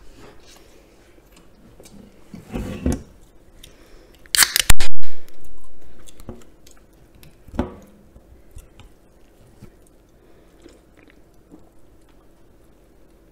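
Crunchy chewing of fried chicken close to the microphone. About four and a half seconds in, a beer can is cracked open with a loud, sharp hiss.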